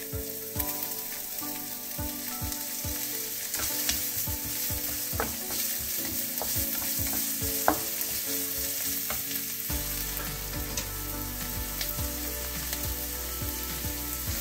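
Diced shallots sizzling in a few spoonfuls of hot oil in a nonstick frying pan, being stirred with a plastic slotted spatula whose strokes scrape and tap against the pan many times.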